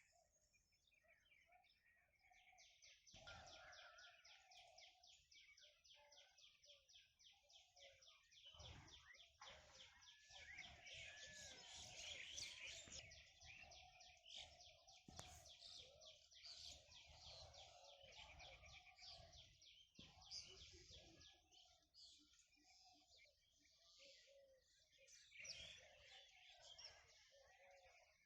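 Faint birdsong of a village morning: a long, fast, high trill from about three seconds in to past the middle, with other chirps and lower calls around it.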